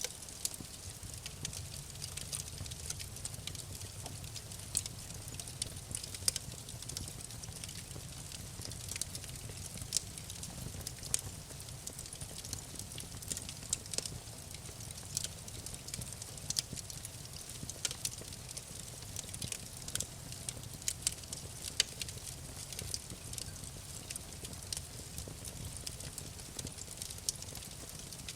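Wood fire crackling: irregular sharp pops and snaps over a low, steady rumble of the flames.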